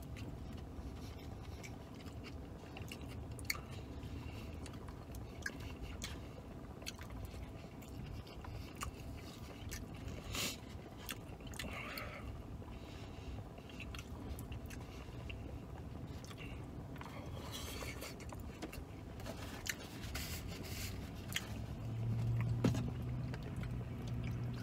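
A man chewing and eating a burrito bowl, the fork clicking and scraping against the bowl now and then, over a low steady hum. Near the end a low hum grows louder as he tips back a cup to drink.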